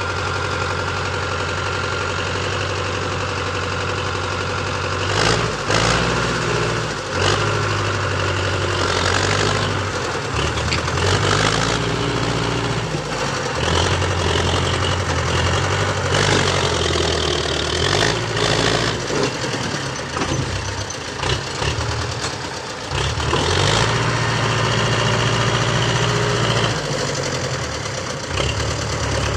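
Tractor engine labouring while hauling a fully loaded trolley uphill, its low note dropping and picking up again several times as the load and throttle change, with occasional knocks and rattles.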